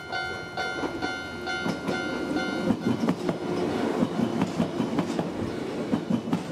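Level crossing warning bell ringing in an even repeated tone for the first few seconds, then a red 415 series electric multiple unit passing close at speed, its wheels clattering rhythmically over the rail joints.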